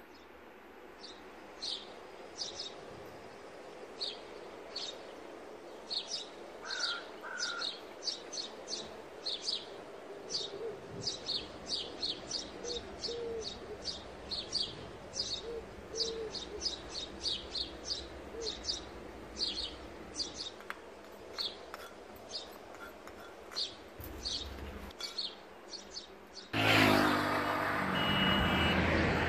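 A small bird chirping over and over, short high chirps two or three a second. About 27 s in, a much louder rush of passing road traffic takes over.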